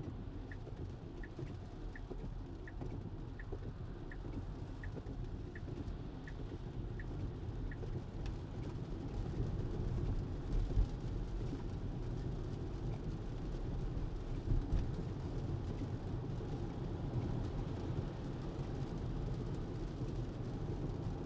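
Tesla cabin on the move in the rain: steady road and tyre noise, with the turn-signal indicator ticking about once every 0.7 s until about eight seconds in. There are two short thumps from the road near the middle.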